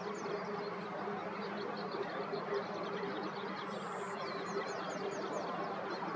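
A songbird gives one short high song about four seconds in: a thin high note, then a quick run of falling notes. Underneath is a steady hiss with a faint low hum.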